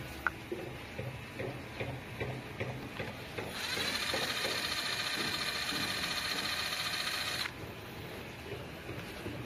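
A small mechanism whirring steadily for about four seconds, its pitch rising briefly as it starts and cutting off suddenly, with light clicks and taps of parts being handled before and after.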